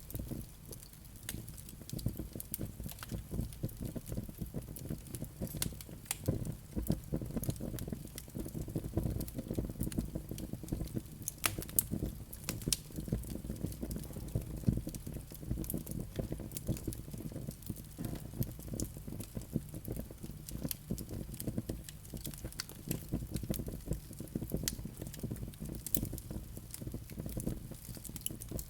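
Wood fire burning in a fireplace, with a low rumble of flames under continual small crackles and pops, a few sharper pops standing out.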